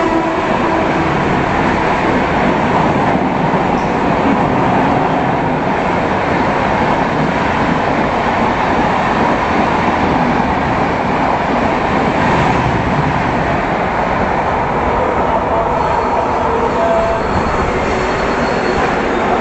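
Indian Railways express train running at speed, heard from aboard: a loud steady rumble of wheels on the rails, with faint high tones of wheel squeal coming and going.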